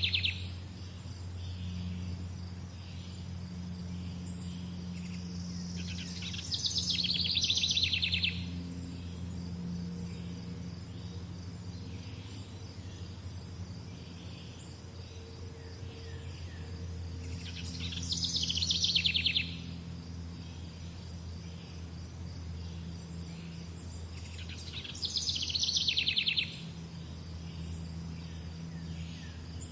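A songbird singing short, fast trilled phrases that drop in pitch, four of them spaced several seconds apart, over a steady low background hum.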